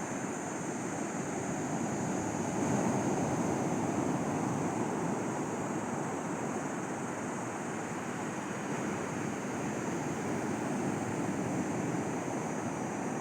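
Sea waves washing steadily onto the beach.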